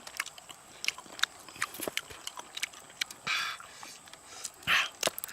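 Someone eating cooked crab: scattered small cracks and crunches of shell being broken and chewed, with two short hissy sounds about three and almost five seconds in.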